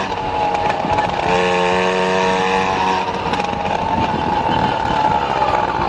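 Motor vehicle engine running, a steady drone with a stack of whining tones that fades in and out, then a single fainter tone in the second half.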